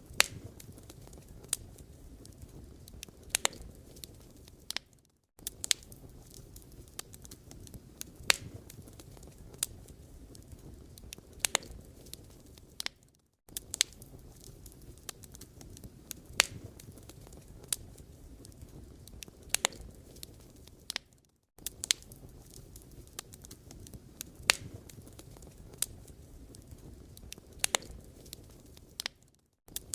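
Burning firewood crackling and popping, with irregular sharp snaps over a steady low hiss. The sound drops out briefly about every eight seconds and the same pattern of pops repeats, as in a looped recording.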